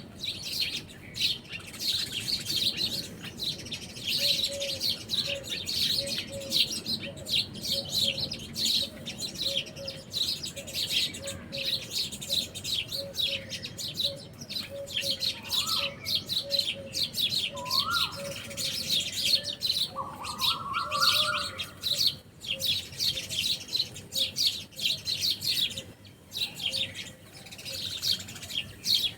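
A flock of small birds chirping and twittering continuously, many calls overlapping. A short low note repeats about twice a second underneath, and a few rising whistled notes come about halfway through.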